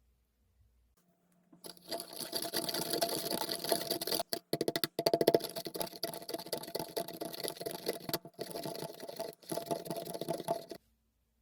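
A small electric motor running fast, starting about a second and a half in and stopping shortly before the end, with a few very brief cut-outs along the way.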